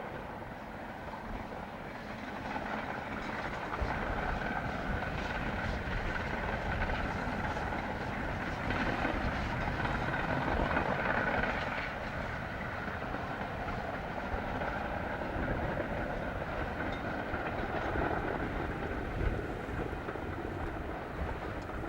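A train running along the line, a steady rumble with wheel noise on the rails that grows louder about four seconds in and is loudest around the middle.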